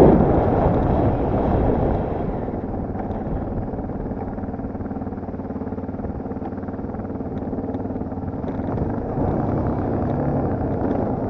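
Dirt bike engine running at fairly steady revs, loud at first and settling over the first two seconds, then picking up a little about nine seconds in.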